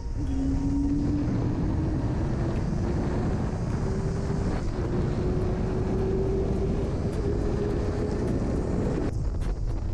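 Yamaha R6's inline-four engine pulling hard under acceleration, its note climbing steadily in pitch for about nine seconds before dropping away, as from a shift or closing the throttle. Heavy wind rush over the microphone at highway speed runs underneath.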